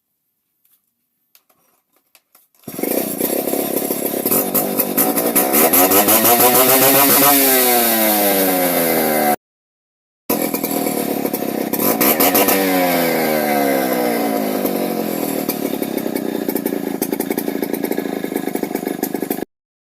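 Stihl 070 two-stroke chainsaw engine starting up about three seconds in and running loud, revved up and then back down under the throttle. It breaks off for about a second and then runs on steadily until it cuts off abruptly.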